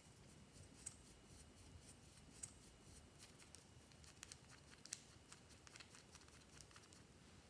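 Faint, irregular sticky clicks and small pops of clear slime being worked by hand.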